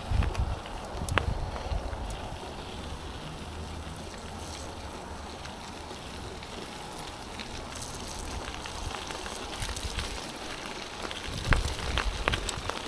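Wind buffeting the microphone of a moving mountain bike rider, a steady rush with low rumbling gusts at the start and again near the end. A few sharp clicks stand out from the rush.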